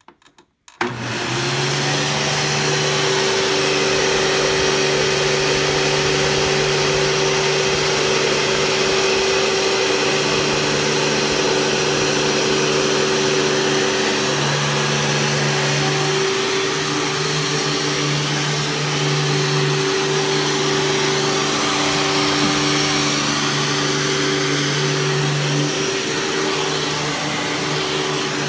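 Hoover Caddy Vac vacuum cleaner switched on about a second in, then running steadily and loudly on short pile carpet: a motor hum over a broad rush of air. The pitch of the hum steps a little a few times partway through.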